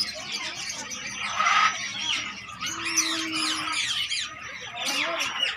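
Many caged birds, lovebirds and parrots, chirping and squawking at once in a dense, overlapping chatter.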